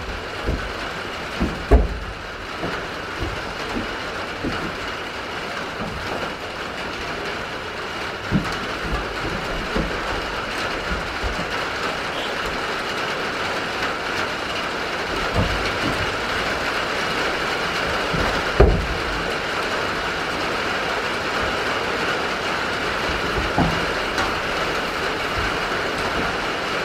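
Steady rain falling on the roof of a wooden goat shed, with irregular knocks and thumps of wood as the goats move and jostle. The two loudest knocks come about two seconds in and again past the middle.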